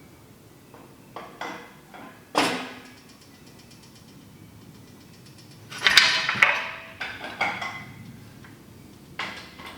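Metal clanks and knocks as a hydraulic cylinder is worked into a Bigfoot landing gear leg: a few sharp knocks early, a louder burst of clanking with brief ringing about six seconds in, and another knock near the end.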